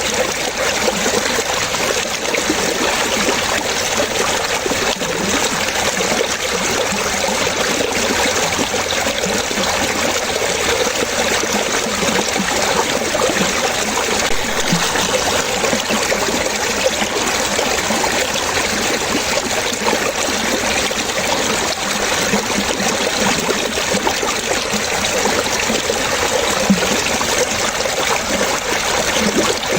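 Water running and splashing steadily in a stream, a continuous bubbling trickle with no pauses.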